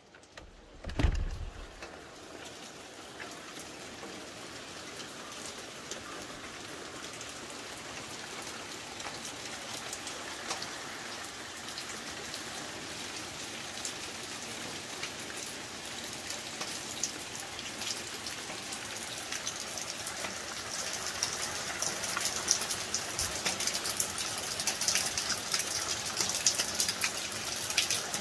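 Steady rain falling on leaves and garden surfaces, a dense patter of individual drops that grows heavier over the second half. A single dull thump about a second in.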